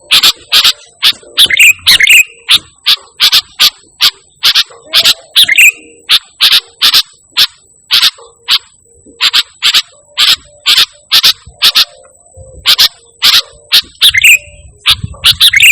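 Sooty-headed bulbul (kutilang) calling continuously in quick, sharp, loud notes, about two to three a second, broken by a few short warbled phrases.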